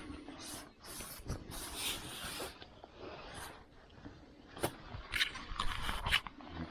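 Irregular scraping and rustling noises with a few sharp clicks, louder and busier in the second half.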